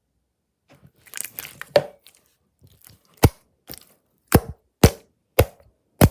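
Slime being pressed and worked by hand. First comes a second of crinkly crackling, then a string of sharp popping clicks, about one every half second.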